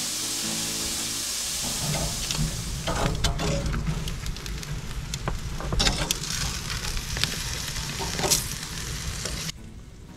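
Bacon sizzling as it fries in a skillet. From about two seconds in, chicken breasts sizzle on a grill, with sharp clicks and clacks of metal tongs on the grates over a low rumble.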